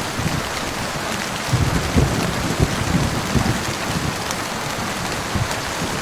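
Steady heavy rain hissing, with low rolling thunder rumbling through it, strongest in the middle.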